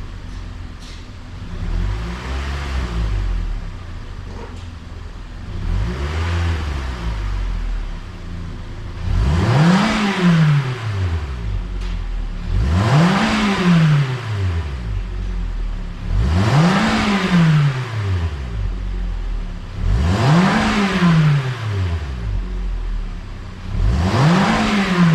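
Toyota Sienta 1.8's four-cylinder engine heard through an aftermarket Thunder single-canister, single-outlet rear muffler, blipped lightly a few times and then revved hard five times. Each rev rises and falls back over about two seconds.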